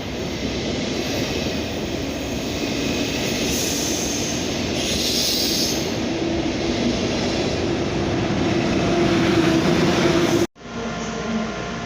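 Train running past close by at a station platform: continuous loud wheel and running noise with a steady tone that grows stronger. It cuts off abruptly about ten and a half seconds in, and quieter background hum follows.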